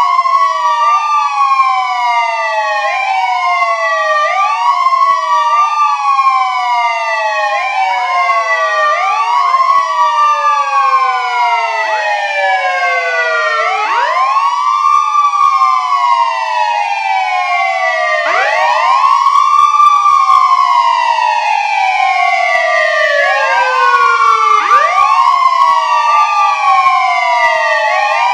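Siren wailing, each wail rising quickly in pitch and then falling slowly over a few seconds, with several wails overlapping at once in a continuous layered loop.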